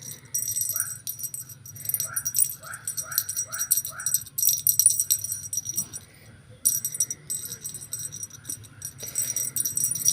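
Small jingle bells shaken in rapid, dense bursts, with a short pause about six seconds in.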